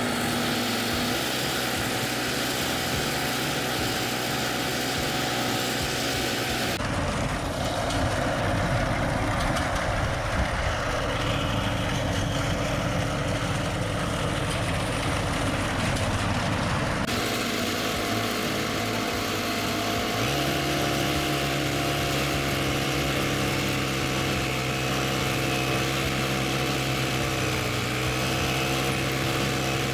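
Small engine of a walk-behind mini roll baler running steadily. Its sound changes abruptly about a third of the way in and again past halfway.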